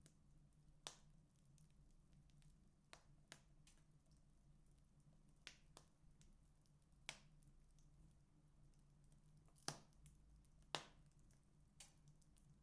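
Wood fire in a fireplace crackling: sharp, irregular pops about one a second, the two loudest close together about ten seconds in, over a faint steady low hum.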